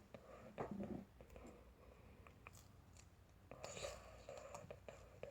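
Faint clicks and rustling of small toy block pieces being handled and fitted together, with a slightly louder handling sound just under a second in and another a few seconds later.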